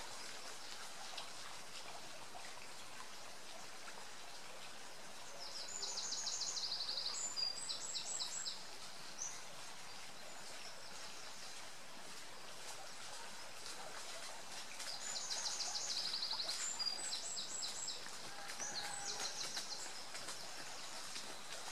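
A songbird singing two bursts of quick, high, repeated notes over a steady outdoor background hiss.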